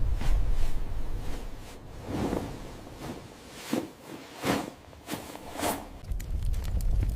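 A series of soft whooshes, four or five swells that rise and fade, over a low rumble. About six seconds in, a heavier rumble with fire-like crackling sets in.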